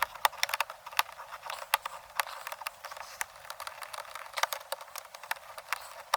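Hand tool working a screw out of plastic interior console trim: a run of irregular sharp clicks and light rattling.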